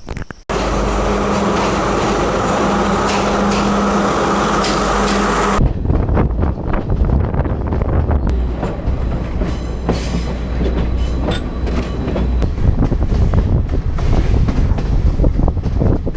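A passenger train running, heard from on board. First a steady rumble with a low hum, then after a cut about five and a half seconds in, the rattle and clatter of the wheels and carriage.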